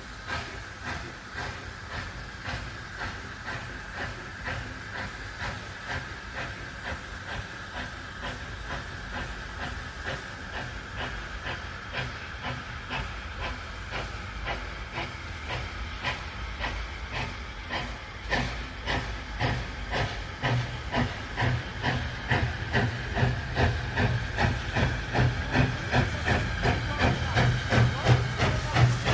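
Steam locomotive working along the line, its exhaust beats coming at an even rhythm over a steady hiss of steam, growing louder through the second half as it comes closer.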